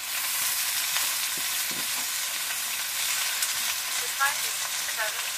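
Sliced food sizzling steadily as it stir-fries in a wok, stirred with a metal ladle.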